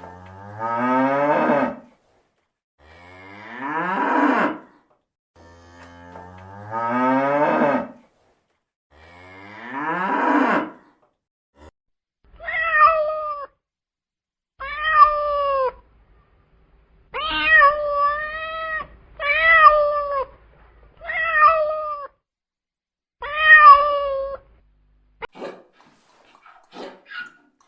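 A cow mooing four times in long drawn-out calls, followed by a cat meowing seven times in short rising-and-falling meows.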